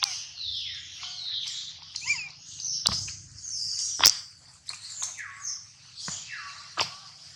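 High-pitched animal chirps and squeaks, many of them short and falling in pitch, with a few longer squeals, broken by several sharp clicks.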